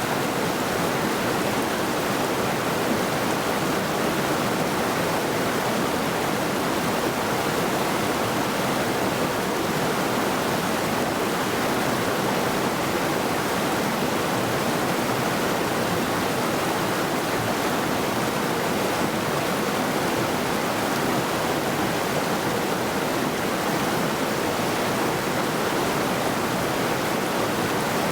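A mountain river running over rocks, a steady full rush of water with no breaks.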